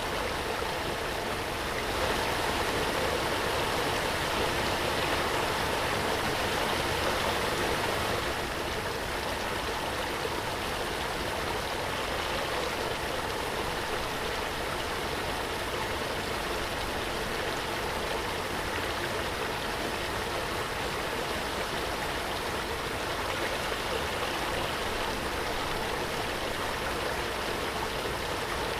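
Waterfall: a steady, even rush of falling water, a touch louder from about two to eight seconds in.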